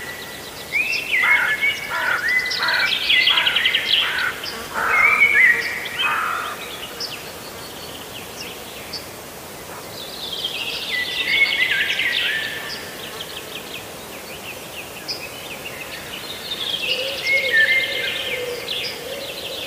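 Birds singing: bursts of rapid chirps, trills and short falling whistles, in three spells, with quieter gaps about seven and fifteen seconds in.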